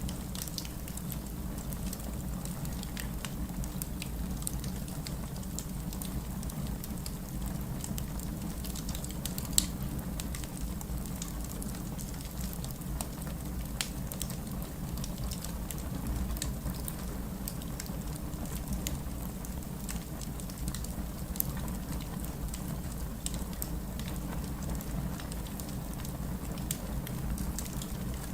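Fireplace crackling with scattered small pops over a steady hiss of rain and a low rumble; two sharper pops stand out, about ten seconds in and again about twenty-one seconds in.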